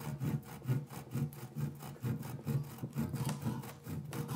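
Hand saw cutting through a wooden log in steady back-and-forth strokes, about two to three strokes a second.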